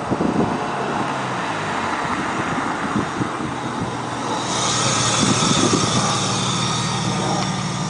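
Exhaust note of a 1999 BMW E36 M3's straight-six running through headers, a straight-through midpipe and a MagnaFlow exhaust. A rushing hiss grows louder about halfway through.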